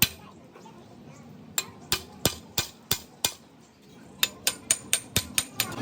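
Hammer striking metal in quick series: a strike at the start, a run of six blows about three a second, a short pause, then a faster run of about seven blows, each with a brief metallic ring.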